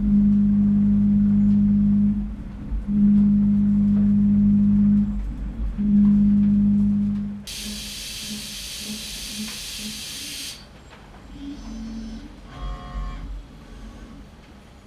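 DMG MORI 5-axis CNC mill cutting stainless steel: a steady droning cutting tone in three passes with short breaks, then a loud hiss lasting about three seconds before it turns quieter.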